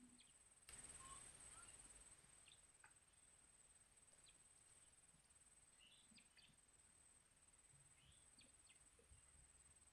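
Near silence in the forest, with faint scattered bird chirps and a soft rustle about a second in, over a steady faint high-pitched whine.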